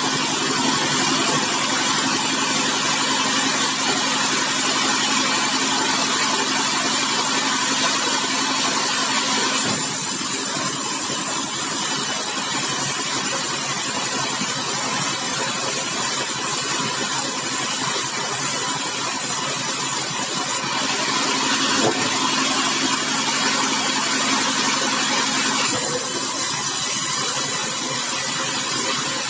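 Sawmill machinery running steadily as large bengkirai logs are cut, with an engine-like drone that changes abruptly in character a few times.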